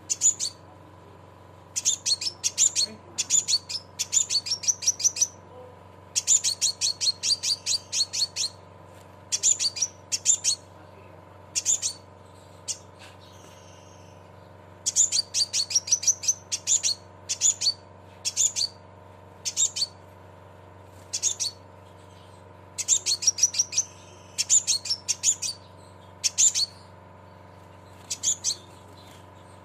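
Sepah raja (scarlet minivet) calling in rapid trains of sharp, high 'cret cret' chirps, bunched in bursts with short pauses between them, over a faint steady hum.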